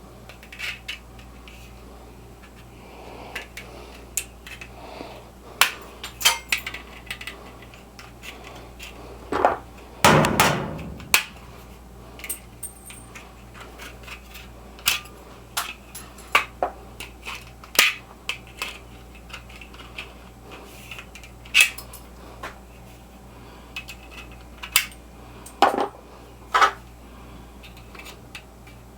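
Irregular knocks, clicks and clanks of tools and metal parts being handled, with a longer, louder scraping thump about ten seconds in, over a steady low hum.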